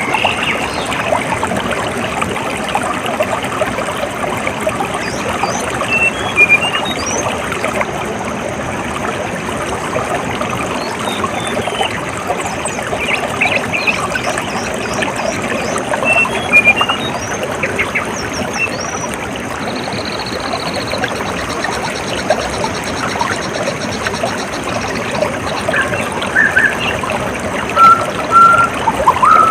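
Flowing water, a steady trickling and pouring rush, with scattered short bird chirps over it and a rapid high trill about twenty seconds in.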